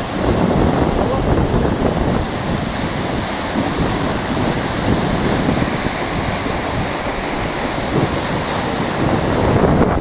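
Heavy rain: a steady rush of rain and running water, with wind buffeting the microphone.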